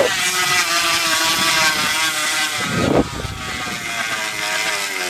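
Bicycle rigged to buzz like a motorbike engine: a steady engine-like drone that wavers in pitch as the wheel speed changes, dropping in loudness about three seconds in.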